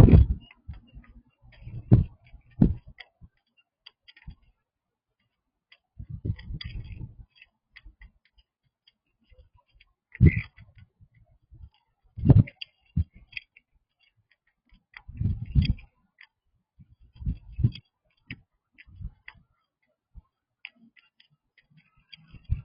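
A small pet chewing a snack: irregular clicks and crunches in short clusters, with pauses of a second or more between them.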